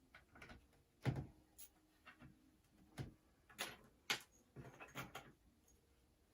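Faint, scattered light knocks and clicks of wooden beehive box parts and screws being handled during assembly, the sharpest knock about a second in.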